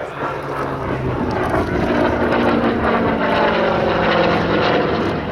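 Hawker Fury warbird's piston engine and propeller in a display pass, growing louder over the first two seconds and then holding steady.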